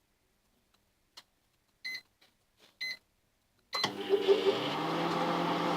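Microwave oven being started: a click, then two short keypad beeps about a second apart. Near the end the microwave begins running with a steady hum and a brief rattle, heating the eggs for another 30 seconds.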